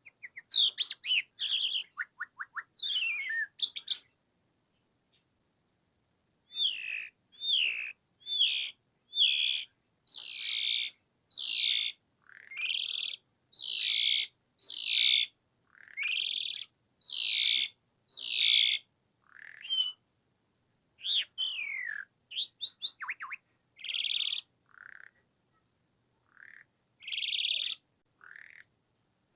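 Javan pied starling (jalak suren) singing vigorously. It opens with a quick burst of chattering notes and clicks, then goes quiet for about two seconds. Next comes a long run of loud, repeated harsh whistles about one a second, ending in shorter varied notes and quick rattles.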